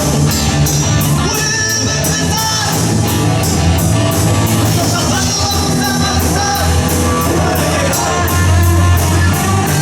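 Live rock band playing: a singer over electric guitar, bass and drums, with a steady beat of cymbal hits.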